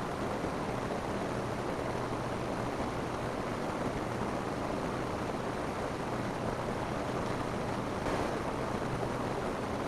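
Steady rain falling on a roof, an even hiss of many drops that neither builds nor fades.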